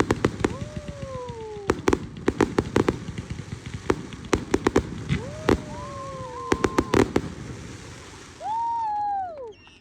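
Fireworks going off: clusters of sharp cracks and bangs in quick succession, with several falling whistle-like tones. Near the end the cracks stop and a louder tone holds, then falls away.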